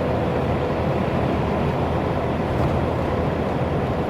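Steady engine and road noise heard from inside a truck's cab while it drives along.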